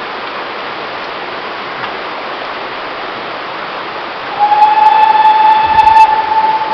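Steam locomotive whistle: one long steady blast starting about four and a half seconds in, over a steady rushing noise.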